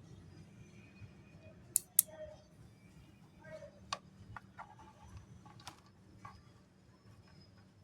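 Pieces of mixed namkeen snack being sorted by hand, clicking and tapping as they are picked up and dropped: two sharp clicks about two seconds in, then a scatter of lighter clicks.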